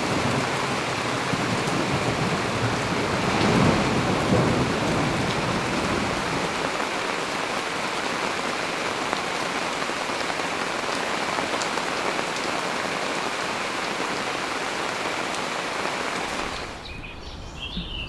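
Steady heavy rain, with a stronger low rumble about three to four seconds in. It cuts off suddenly shortly before the end.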